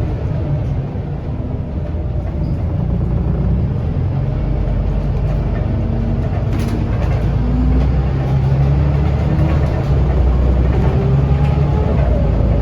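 Scania L94UB bus with ZF automatic gearbox under way, heard from on board: the diesel engine drones low and steady. From about two-thirds of the way in it gets louder, with a whine rising in pitch as the bus accelerates.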